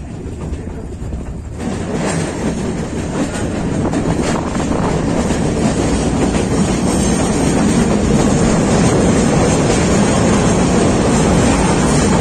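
Meter-gauge passenger train running: a steady rumble of the carriages on the track, with a few wheel clicks. It grows louder about two seconds in and then holds steady.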